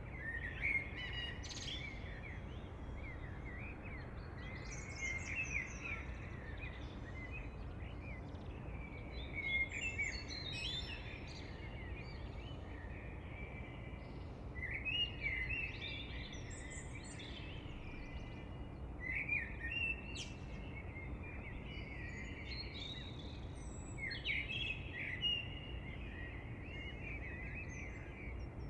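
Birds singing: bursts of quick, high chirps and warbled phrases every few seconds over a steady low background hiss.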